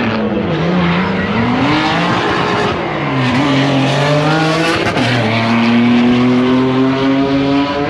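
A street car's engine at full throttle on a drag-strip pass, revs climbing and dropping back sharply at each upshift, three times.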